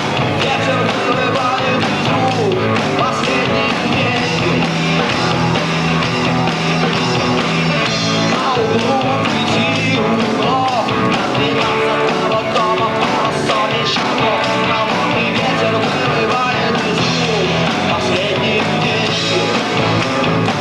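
Rock band recording: guitars and rhythm section playing a rock song, loud and steady.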